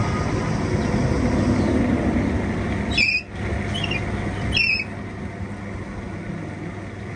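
Engine running steadily with a low hum, broken by two short high squeaks, about three and four and a half seconds in; the level drops a little after the second squeak.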